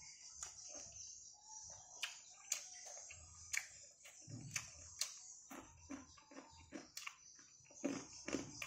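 Close chewing and mouth sounds of someone eating rice and vegetables by hand, with irregular crackles and crunches from crispy fried intestine chips. Behind it, a steady high chirring of crickets.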